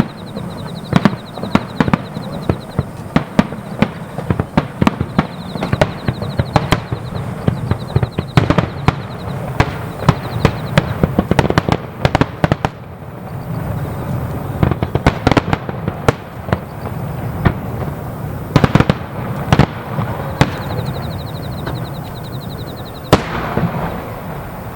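Fireworks display: a dense, rapid run of aerial shell bursts and crackling, several bangs a second over a low rumble, with one especially sharp bang near the end.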